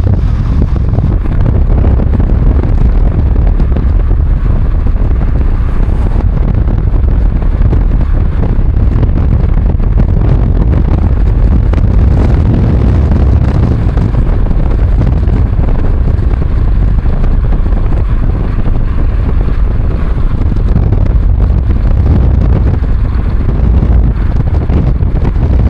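Wind buffeting the microphone: a loud, steady low rumble without pauses.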